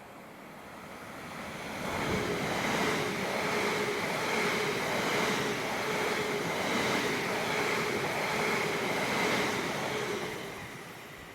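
A train passing through the station: a rushing rumble that builds over about two seconds, holds, then fades away near the end, with a steady whine running through it.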